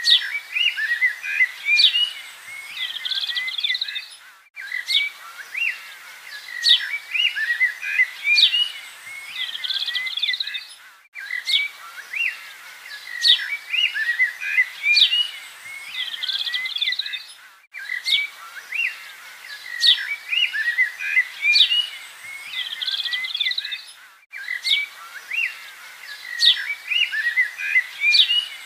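Birds chirping and calling in quick, high notes. The same short recording repeats about every six and a half seconds, with a brief drop-out at each join.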